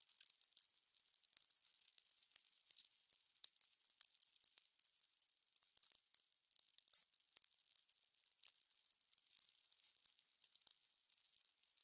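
Fire crackling: small sharp pops and snaps at an irregular pace over a faint hiss.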